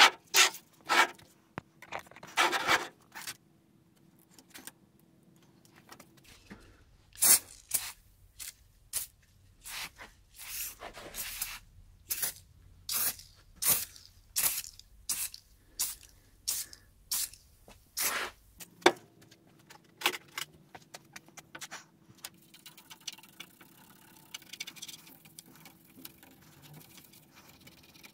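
Short, sharp scrubbing strokes on the limiter's faceplate, roughly one or two a second, as it is cleaned, then fainter, finer scratching for the last several seconds.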